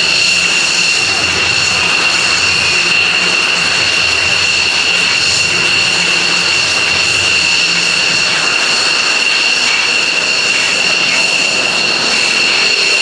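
Air Force One, a VC-25A Boeing 747, taking off. Its four jet engines give a loud, steady roar with a high, piercing whine held throughout.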